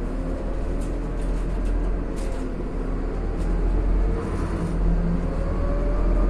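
Inside a Scania CN280UB city bus under way: a steady low engine and road rumble with light rattles of the interior. A whine rises slowly in pitch near the end as the bus gathers speed.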